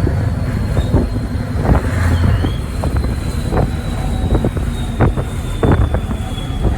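Scania 143's 14-litre V8 diesel running steadily under way, heard from the cab, with scattered knocks and rattles.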